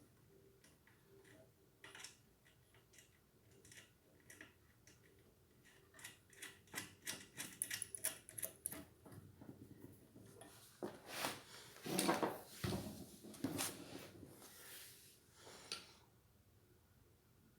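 Light clicks and handling noises from small ceiling-fan parts and hardware being worked by hand, with a quick run of clicks in the middle and a few louder scrapes later on.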